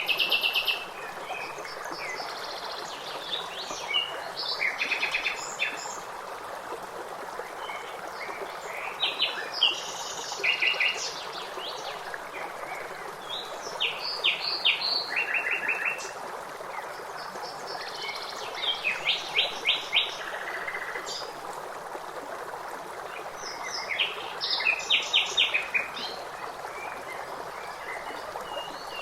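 Songbirds singing in phrases of quick, repeated high chirps every few seconds, over the steady rush of a running stream.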